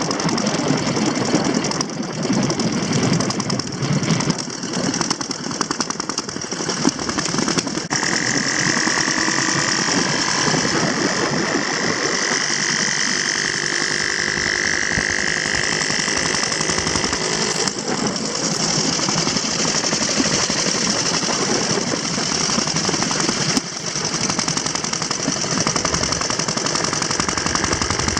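Antique motorcycle engines running, a rapid, even stream of firing beats; the sound changes character about eight seconds in and holds steady after that.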